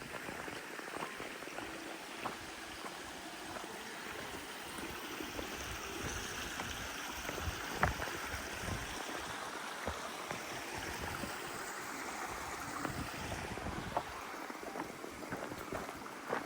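Glen stream running over rocks, a steady rushing hiss, with scattered short clicks and knocks.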